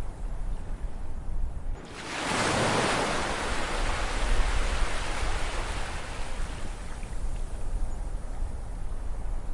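Ocean surf: a wave breaks about two seconds in with a sudden rush of hiss, then its wash slowly fades over the next several seconds, over a steady low rumble of sea.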